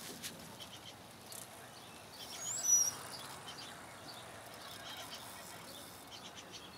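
Steady low background noise with a single short bird call about two and a half seconds in: a few quick, high chirping notes.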